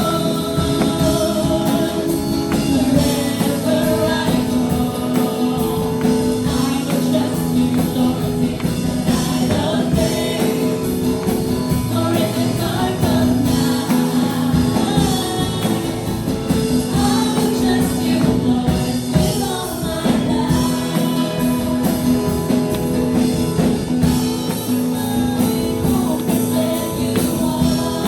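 A worship band playing with singers: voices over guitar and a steady beat with tambourine.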